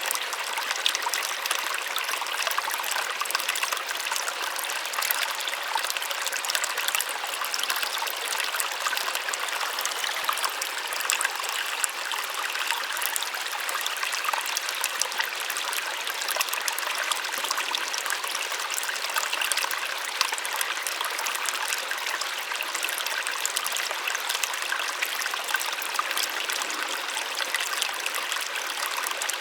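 Small waterfall splashing and trickling steadily, a soft rushing of falling water with fine splashes and little low rumble.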